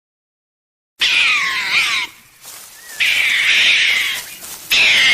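An animal calling loudly in drawn-out, wavering cries: one about a second in, a second longer one about two seconds later, and another starting near the end, after a moment of silence.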